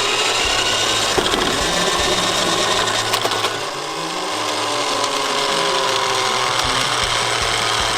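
Small motors and gearing of toy garbage trucks whirring steadily as they run up a wooden slope, the pitch sliding up and down as their speed changes, with a dip in level about four seconds in.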